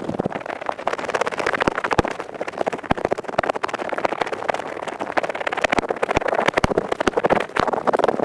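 An earpick scratching quickly and continuously close to the microphone: a dense run of dry, fast scrapes and clicks, as in high-speed 'kari-kari' ear-cleaning ASMR.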